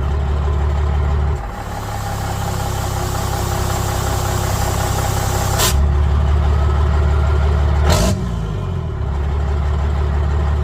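Straight-piped 12-valve Cummins 5.9 inline-six diesel running steadily while driving, rising slightly in loudness through the middle. Two brief sharp noises cut through it, one a little past halfway and one near the end.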